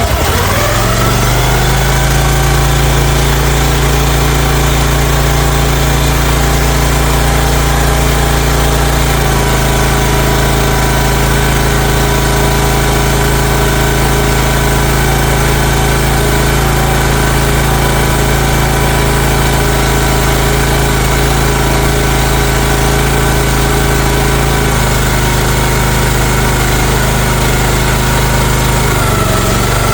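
Small gasoline engine on a mini excavator catching on a cold start and quickly rising to a steady run. Its tone shifts slightly about nine seconds in and again near the end.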